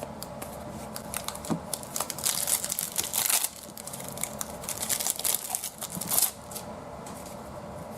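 Wrapper of a trading-card pack being torn open and crinkled in the hands: a run of quick crackles, busiest from about two to three and a half seconds in, with another burst of crinkling about six seconds in.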